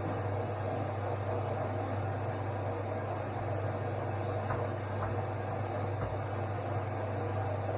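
AEG Lavamat L62850L front-loading washing machine running: a steady low hum with an even noise over it and a few faint ticks.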